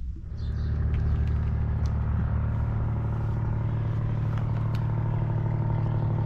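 An engine comes up in level about half a second in, then runs steadily with a low, even hum.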